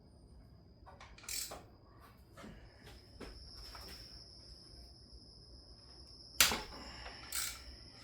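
Metal tool and part clinks and knocks while unbolting parts in a car's engine bay, with the loudest knock about six and a half seconds in and another a second later. A faint steady high-pitched tone runs underneath.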